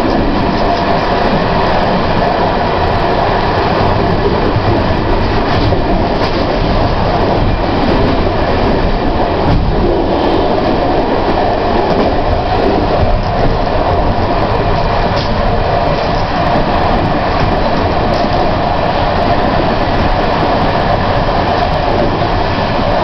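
Prague Metro train running steadily, heard from on board the car: a loud, even running noise of the train in motion, with no stop or change in speed.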